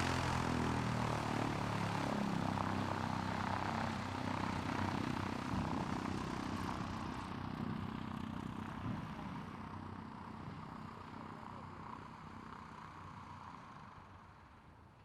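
Propeller-driven light aircraft moving away, its engine and propeller sound fading steadily and losing its higher tones until it is almost gone near the end.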